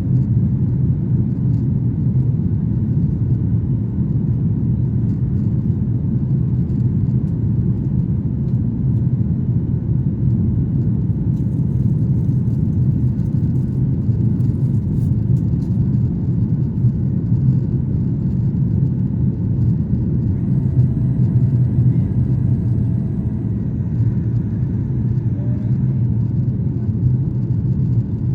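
Steady low rumble of a Ryanair jet airliner's engines and airflow during takeoff and climb, heard without change in level or pitch.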